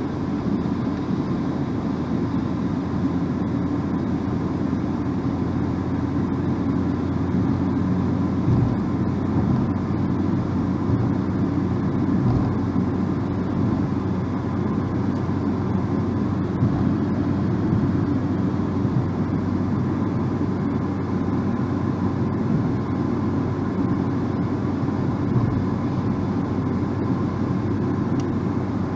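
Steady low rumble of a car driving at speed, engine and tyre-on-road noise together, with a couple of brief low bumps.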